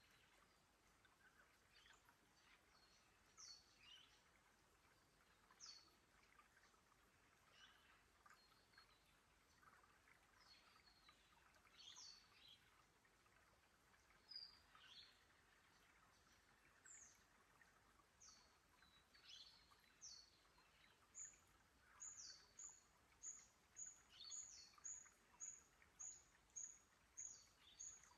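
Faint forest birds calling: scattered short, high, downward-sweeping calls, then from about two-thirds of the way in one bird repeats a short high note about twice a second.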